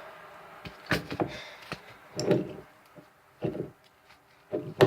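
Slime being handled and squeezed into a plastic container: a few sharp knocks and taps, then several short squelching bursts.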